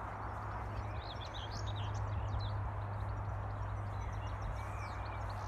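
Wild birds chirping and twittering, busiest in the first half, over a steady low hum.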